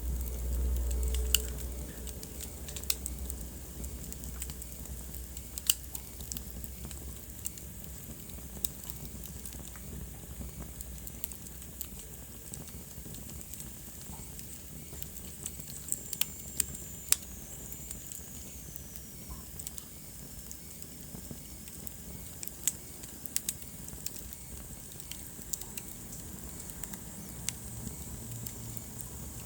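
Wood fire burning in a fireplace: a steady soft hiss with irregular sharp crackles and pops from the logs. A faint high whistle slides slowly down in pitch about halfway through.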